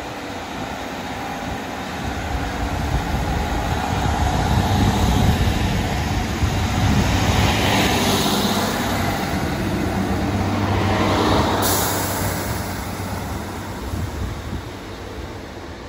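A train passing by: its rumble builds over several seconds, holds, then fades away.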